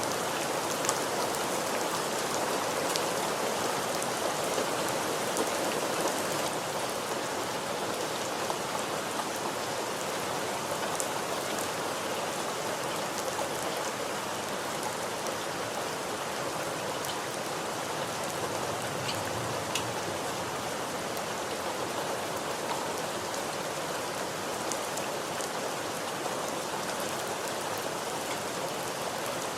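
Steady rainfall, an even hiss of rain with scattered individual drops ticking close by.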